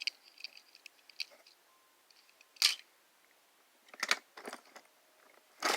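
Handling noise from small toy cars being picked up and turned over by hand: a run of light clicks at first, then a few brief scraping, rustling sounds, the loudest near the middle and at the end.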